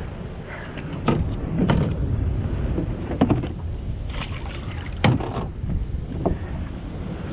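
Wind buffeting the microphone on a small boat, a steady low rumble, with four sharp knocks against the boat and a short hiss of water or wind in the middle.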